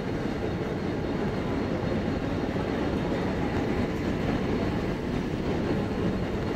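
Mumbai suburban EMU local train pulling slowly out along the platform, a steady rumble of wheels and motors with no sharp clanks.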